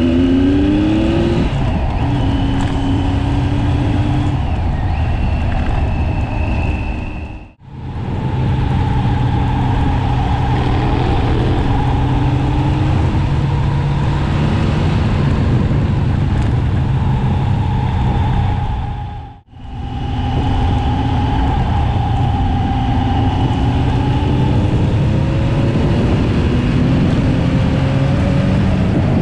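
KTM 1090 Adventure's V-twin engine running at speed on a dirt road, rising in pitch as it accelerates at the start, then holding a fairly steady note, under constant wind rush. The sound drops out briefly twice, about a quarter and two-thirds of the way through.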